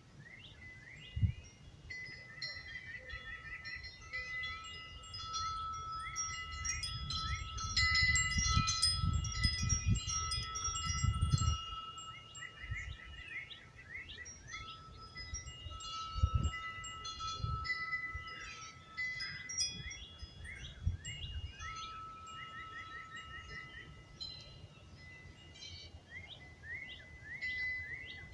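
Metal wind chimes ringing in the breeze, many overlapping struck notes that linger, busiest in the middle. Birds chirp in quick trills underneath, and a low rumble of wind swells several seconds in.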